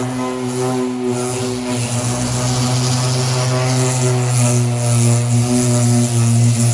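Bauer 5-inch random orbital palm sander running, a steady electric-motor hum with a hiss over it.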